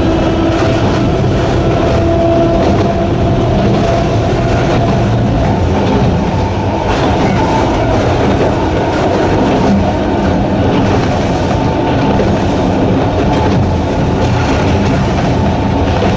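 Narrow-gauge electric train of the Sanshin Railway Hokusei Line running steadily: the growl of its nose-suspended traction motors and wheel noise on the rails, with a faint steady whine in the first half.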